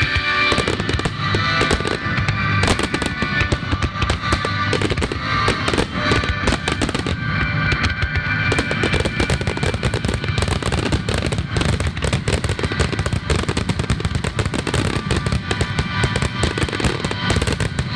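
A rapid barrage of fireworks bursting and crackling, many reports a second, over music.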